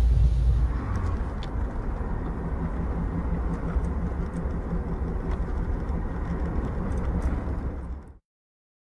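Steady road and engine noise of a car driving, with a few faint ticks; it cuts off abruptly about eight seconds in.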